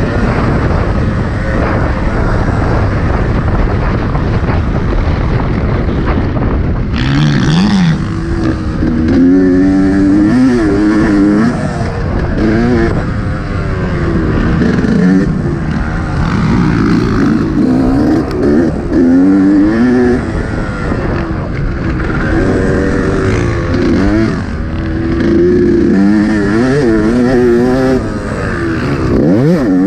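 Yamaha YZ125 two-stroke motocross engine revving hard and backing off again and again, its pitch climbing and falling every second or two, with heavy wind rumble.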